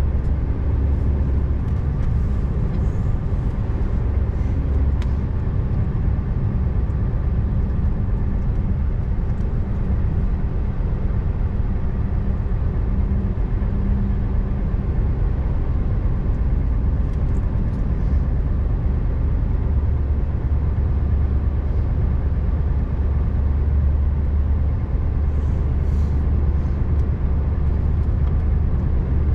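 Scania R590's V8 diesel running steadily as the truck drives along, a deep even engine hum over road noise, with a few faint light ticks.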